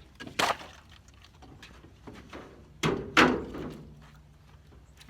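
Split firewood knocking and thudding as pieces are handled and stacked: one sharp knock, then two more close together a couple of seconds later.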